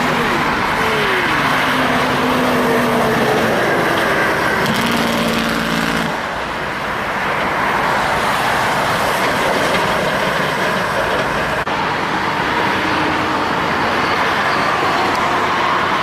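Heavy road traffic, with trucks passing close by: continuous tyre and engine noise. An engine note falls in pitch about a second in, and a steady engine drone runs until about six seconds in.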